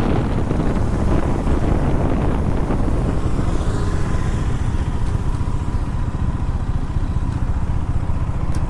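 KTM Duke 250 single-cylinder engine running steadily while the motorcycle is ridden on the road.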